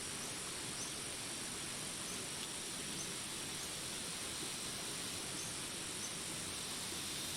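Steady rain hiss mixed with a continuous high insect drone. Short high chirps repeat about once a second.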